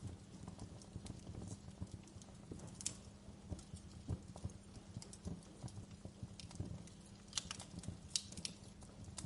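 Wood fire crackling in a fireplace: irregular sharp pops and snaps of burning logs over a steady low rumble of the flames, with a few louder pops about three seconds in and again near the end.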